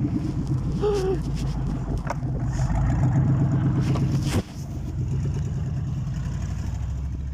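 Engine of a snow-plowing vehicle running steadily, with a few sharp knocks or scrapes in the first half; the level drops suddenly about four and a half seconds in and the engine keeps running more quietly.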